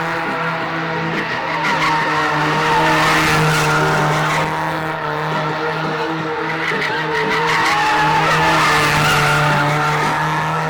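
A car spinning its tyres, with the engine held at high, steady revs and the tyres squealing in a continuous smear of noise that swells and eases.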